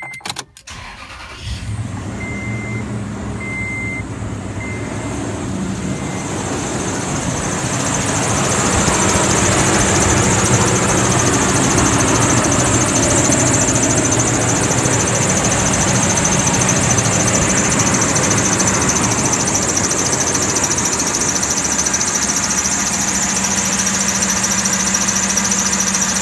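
A 2006 Toyota Tundra's engine starting about a second and a half in and then running steadily, with a few short beeps early on. A steady high-pitched tone rides over the engine and grows stronger after several seconds; it points to the serpentine belt squeal the truck was being checked for.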